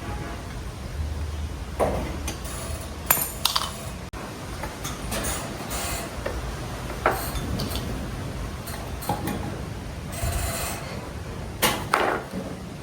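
Metal tools and parts clinking and knocking as they are handled during repair work, in irregular sharp strikes, a few of them ringing briefly.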